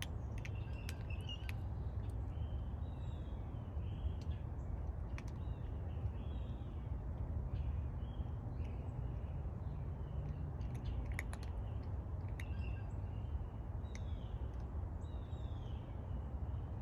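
Outdoor ambience: a steady low rumble with faint, scattered bird calls throughout and a few sharp clicks, clustered about a second in and again around eleven seconds.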